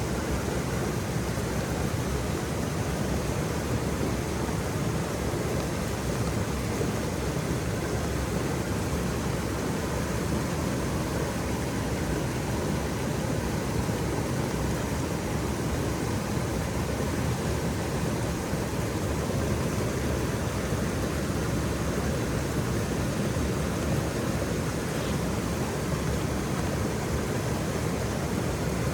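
Waterfall rushing: a steady, even roar of falling water, weighted to the low end, with no breaks or changes.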